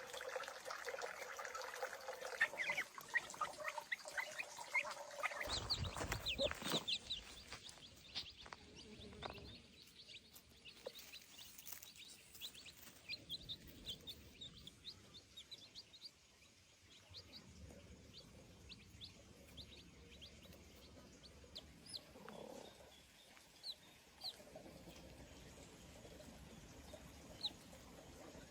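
Short, high bird chirps repeated throughout, with chickens nearby. A steady noisy rush underlies the first five seconds, then stops.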